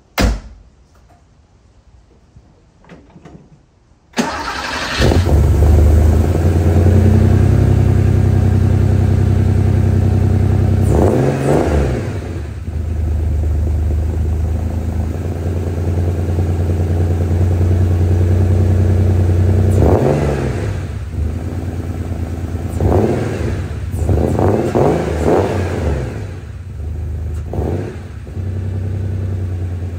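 1987 Porsche 911 Carrera 3.2's air-cooled flat-six cold-starting through a Fabspeed Supercup muffler and the stock catalytic converter. After a few seconds of quiet it catches suddenly and runs at a steady fast idle. It is revved briefly twice, then given a quick series of short blips, and drops to a lower idle near the end.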